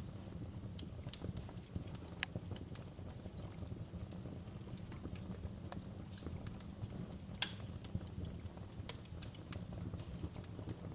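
Wood fire crackling in a fireplace: a steady low rumble of burning with irregular sharp pops and snaps, the loudest about seven seconds in.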